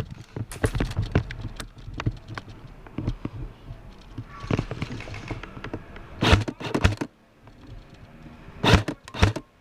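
Irregular clicks and knocks from handling an airsoft gun and gear, with a few sharp louder bursts about six and nine seconds in, as the gun fails to shoot properly.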